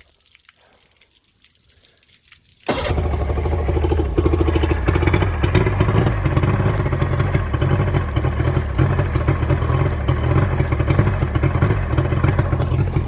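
Carbureted boat engine started with the key: after a couple of quiet seconds it fires instantly, with no long cranking, and settles into a steady loud run. The quick start shows the retuned carburetors and repaired fuel lines have cured its hard starting.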